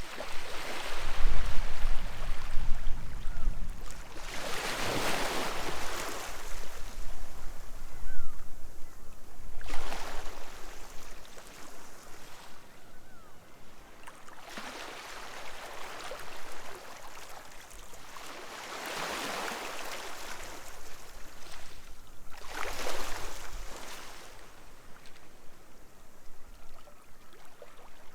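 Sea waves breaking and washing up the shore, swelling and fading in repeated surges about every four to five seconds.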